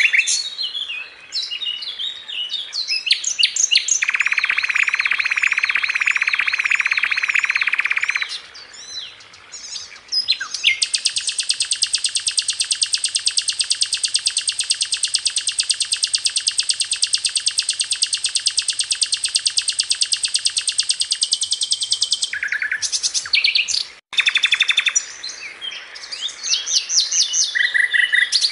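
Songbird masteran recording: shrill chirps and calls broken by very fast trills. One dense trill runs about four seconds early on, and a long, even, rapid trill lasts about ten seconds from around eleven seconds in.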